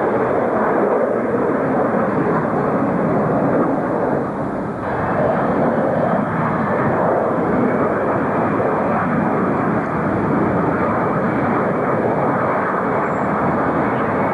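Jet airliner engines: a loud, steady rush of noise with a brief dip about four seconds in, then a faint whine rising slowly above it.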